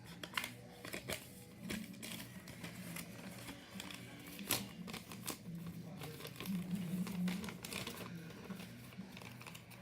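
A sheet of paper being handled and folded, crinkling and crackling in short irregular bursts, with one sharper crackle about four and a half seconds in.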